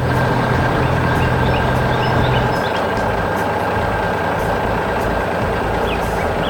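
Heavy-machinery engine, an excavator's, running steadily under load, with a low hum that drops out about two and a half seconds in. Short high rising chirps recur over it.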